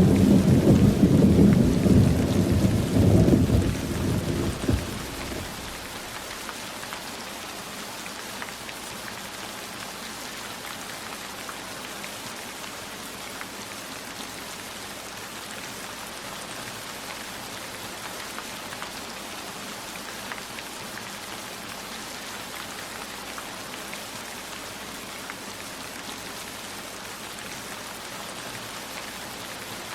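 A roll of thunder rumbles at the start and dies away about five seconds in. Steady rainfall follows, with scattered raindrop ticks.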